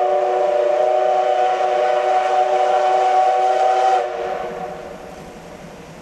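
Steam locomotive whistle blowing one long chord of several tones, its pitch creeping slightly upward, then shutting off about four seconds in. A fainter hiss and running noise of the train carries on after it.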